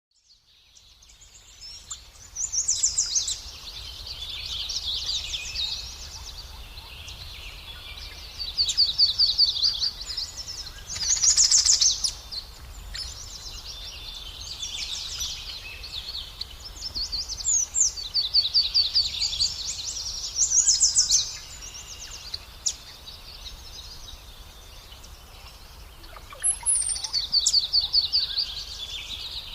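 Small birds calling in high, rapid trills, bursts of a second or two repeating every few seconds, typical of nestlings begging at a feeding.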